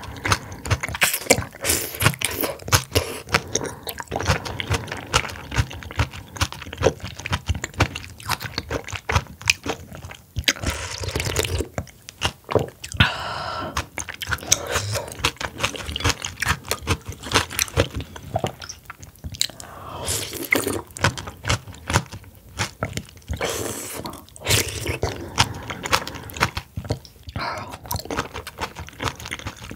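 Close-miked eating of oysters and raw oyster cold soup: a steady run of wet chewing and crunching with many sharp mouth clicks and smacks, and a few longer hissing stretches.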